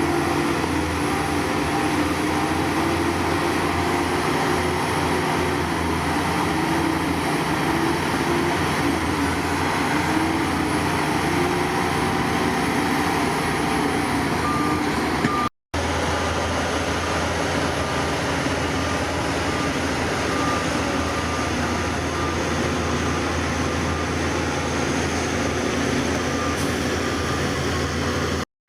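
Heavy diesel earthmoving machinery running steadily. A reversing alarm beeps faintly through the second half, after a brief dropout about halfway through.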